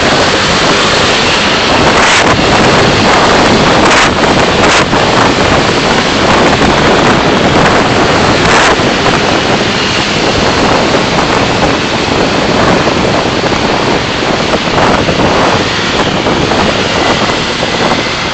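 Steady, loud road and wind noise from a car on the move, picked up by a dashcam's microphone, with a few short knocks about two, four and eight and a half seconds in.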